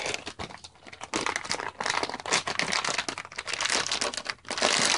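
Plastic packaging crinkling and rustling in irregular bursts while modular power-supply cables are pulled out of it.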